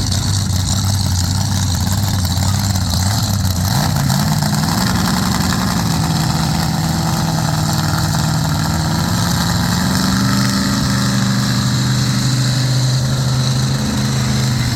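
Truck engine running steadily, stepping up in pitch about four seconds in, holding there, then settling lower about ten seconds in.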